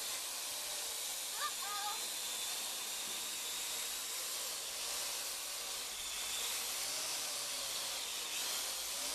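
Parrot AR.Drone quadcopter flying, its propellers giving a steady whirring hiss with a faint motor whine that shifts in pitch now and then as it moves.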